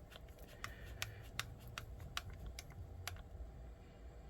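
Scattered light clicks and taps of small screws and kit parts being handled and fitted during an RC truck chassis build.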